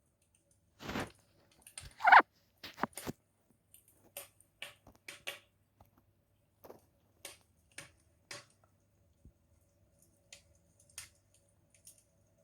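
Wood fire crackling: scattered, irregular pops and snaps, with a louder snap about two seconds in.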